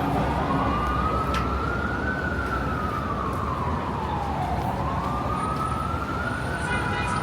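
Emergency vehicle siren on a slow wail, its pitch rising and falling twice over a steady hum of street traffic.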